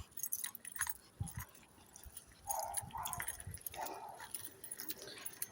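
Faint footsteps crunching on a gravel path, with scattered small clicks.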